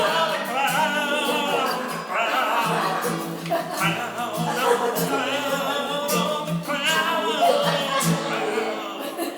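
Live improvised comedy song: a voice singing with vibrato over instrumental accompaniment with a steady low-note pulse.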